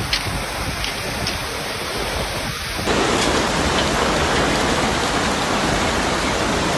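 Heavy rain pouring, a steady rushing noise. About three seconds in it changes abruptly to a louder, denser downpour.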